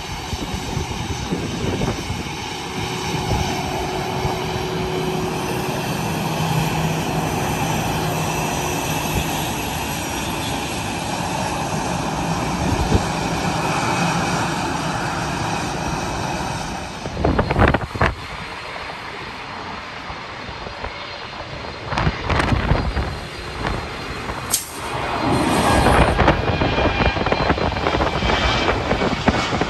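Jet airliner engines, a steady broad rush of noise with a faint whine, which drops away about 17 seconds in. After that, gusts of wind buffet the microphone in irregular bursts.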